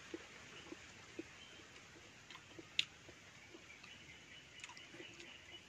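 Faint mouth clicks and smacks from chewing santol fruit: a few soft, irregular ticks, with one sharper click about three seconds in.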